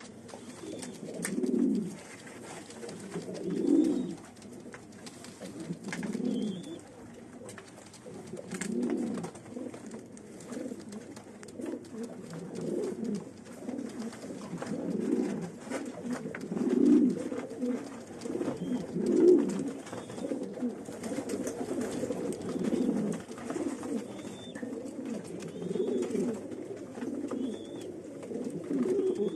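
Domestic pigeons cooing over and over, low swelling calls coming every two or three seconds, with faint short high chirps now and then.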